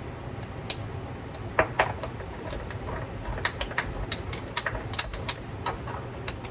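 A dozen or so light, irregular clicks and taps of a metal measuring spoon knocking and scraping in a spice jar, breaking up onion powder that has caked hard. A low steady hum runs underneath.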